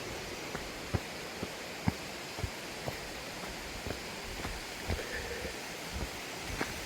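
Steady rush of a mountain stream, with scattered soft knocks every second or so.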